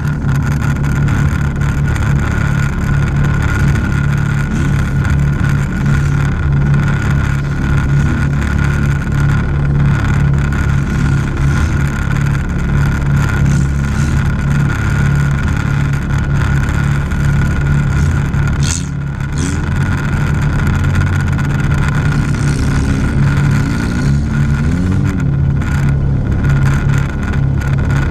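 A wreck-race car's engine running steadily, heard from inside its cabin while the car stands at the start, with the revs rising and falling now and then.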